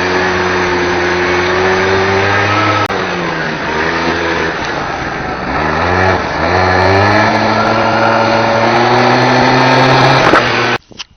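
Polaris Scrambler 50 ATV's small two-stroke engine running as it is ridden. Its pitch drops and climbs again several times as the throttle is eased off and opened. It cuts off suddenly near the end.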